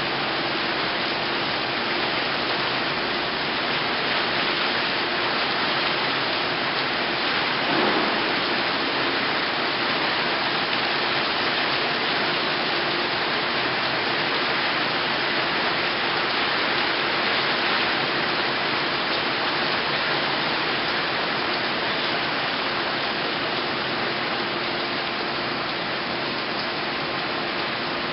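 Heavy tropical-storm rain pouring down steadily as a dense, even hiss, with a brief swell about eight seconds in.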